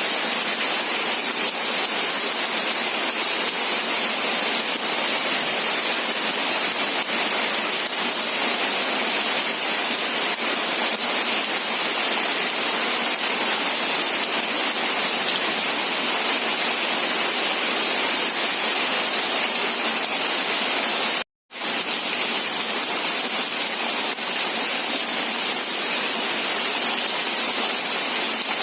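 Steady heavy rain: a dense, even hiss, brightest in the high range. About 21 seconds in it cuts out to silence for a fraction of a second, as at an edit or loop join, then resumes unchanged.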